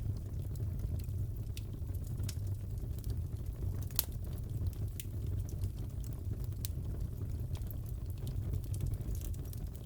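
Wood fire crackling in a fireplace: a steady low rumble with scattered sharp pops and snaps, the loudest about four seconds in.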